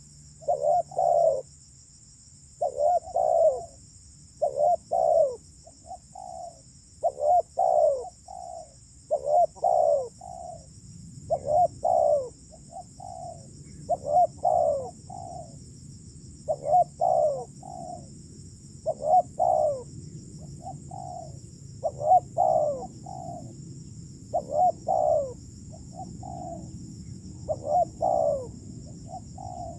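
Spotted dove (terkukur) cooing over and over, a phrase of three or four coos roughly every two seconds.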